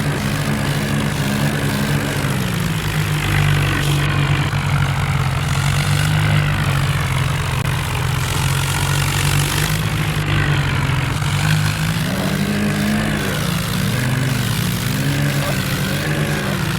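Tractor diesel engines running hard under load in a tug-of-war pull, a steady low drone throughout. A higher wavering sound joins it about three quarters of the way through.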